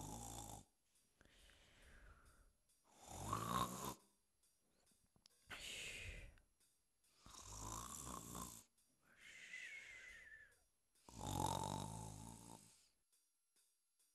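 A person snoring in slow, rough breaths about every two seconds, some loud, some softer with a whistle. The snoring stops about a second before the end, leaving faint regular ticks.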